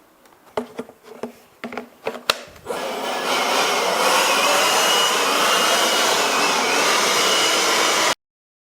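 A few knocks, then an angle grinder starts about three seconds in and runs loudly, grinding concrete off a masonry wall with a faint wavering whine. The sound cuts off suddenly near the end.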